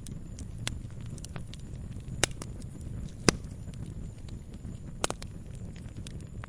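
Campfire crackling: irregular sharp pops and snaps of burning wood over a steady low rumble of the flames. The loudest pops come a little after two seconds in and just past three seconds, with a quick double pop around five seconds.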